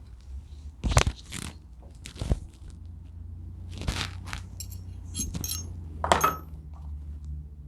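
Small metal hardware and hand tools clinking and knocking as they are handled, about half a dozen separate knocks, the later ones with a bright metallic ring.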